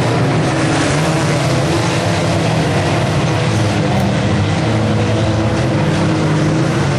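Several 1600cc banger racing cars' engines running hard together, a loud steady din of overlapping engine notes that waver as they rev.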